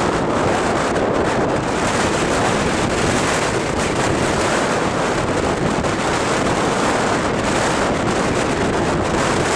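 Blizzard wind at storm force buffeting the microphone: loud, steady rushing wind noise with no let-up.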